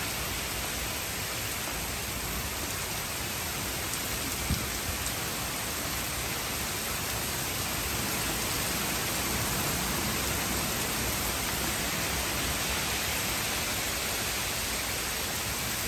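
Heavy rain pouring steadily on trees, lawn and street, a dense even hiss. A single short tap sounds about four and a half seconds in.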